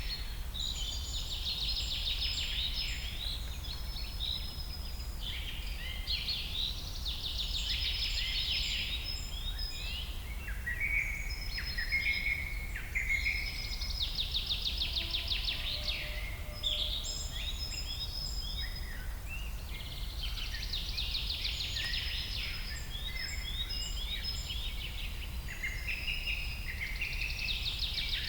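Songbirds singing together, with a long rapid trilled song repeating about every six seconds among shorter chirps and whistles, over a steady low rumble of background noise.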